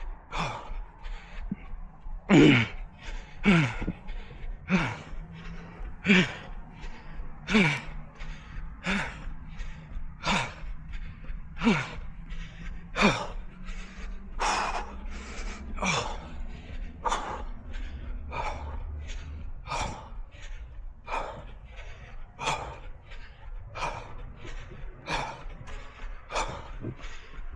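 A runner breathing hard and rhythmically mid-run, a gasping breath in and a blown breath out about every second and a quarter, with a steady low rumble underneath.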